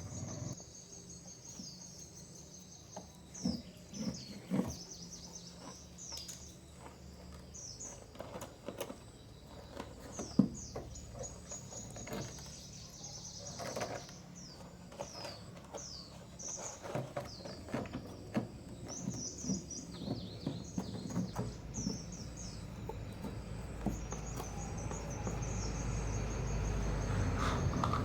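Small birds chirping repeatedly, short high calls and quick falling sweeps, with scattered sharp clicks and knocks. A low rumble builds over the last few seconds.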